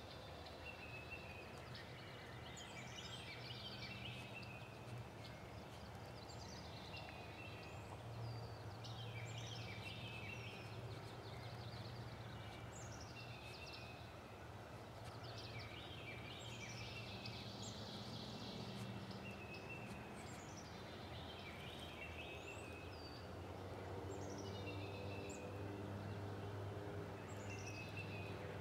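A bird singing a short phrase over and over, about every two to three seconds. Each phrase starts with a high falling whistle and ends in a quick jumble of notes. A faint steady low hum runs underneath.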